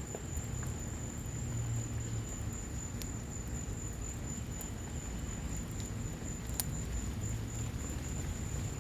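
Wood fire crackling in a patio fireplace, with sharp pops about three seconds in and again near seven seconds, over the steady patter of rain and a low rumble.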